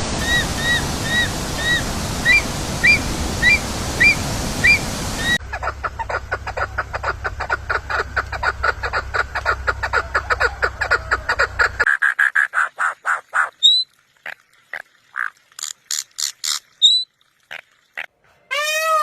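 A string of different bird calls that changes abruptly several times. First, short high chirps about twice a second over a steady background noise. Then a fast rhythmic chatter for about six seconds, sparse clicks and short notes, and near the end loud, arching, rising-and-falling calls.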